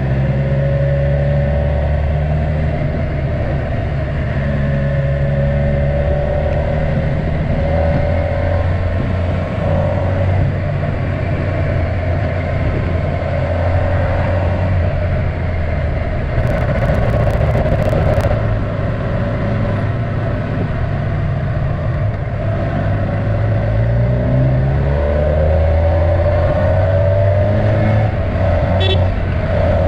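Kawasaki Versys 1000's inline-four engine running while riding on the road, over steady road and wind noise. Its pitch rises as it accelerates about three-quarters of the way through.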